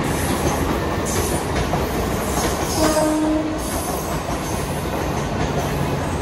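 Western Railway air-conditioned EMU local train passing: a steady rumble of wheels on rail, with high-pitched wheel squeals through the first half. There is a brief steady tone about three seconds in.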